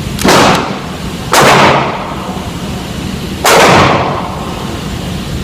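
Three shotgun blasts from a Mossberg 500 pump-action shotgun, the first two about a second apart and the third about two seconds later, each with a short echoing tail.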